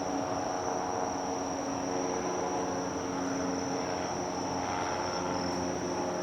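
A steady high-pitched insect whine runs over the low, steady hum of a large ship's engines and machinery.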